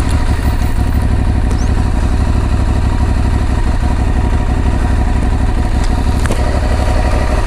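Aprilia Tuareg 660's parallel-twin engine running steadily, a low, even pulsing with no revving.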